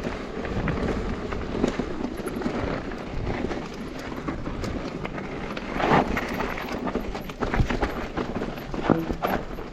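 Mountain bike rolling downhill over a rough trail: a steady rush of wind and tyre noise with constant rattling knocks from the bike, and heavier jolts about six seconds in and again near nine seconds.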